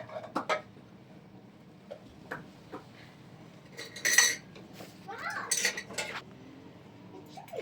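Dishes and utensils clinking and knocking in scattered taps, with one louder clatter about four seconds in.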